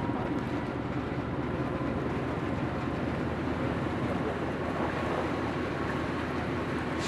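Diesel locomotive of a container freight train idling steadily while stopped, a constant low engine rumble with a faint steady whine above it.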